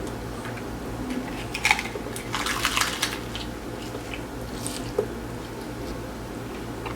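Close-up wet eating sounds: chewing and mouth smacks, with a short cluster of louder, sharper noises about two seconds in.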